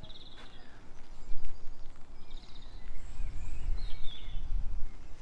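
Small birds chirping and twittering several times over a low rumble that grows louder about three seconds in.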